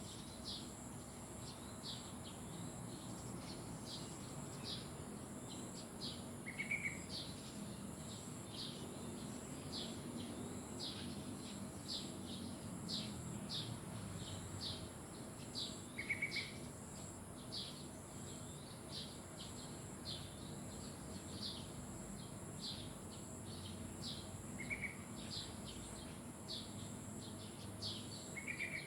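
Birds calling: a steady run of short high chirps about once or twice a second, with a brief louder trill four times, over a steady high hiss.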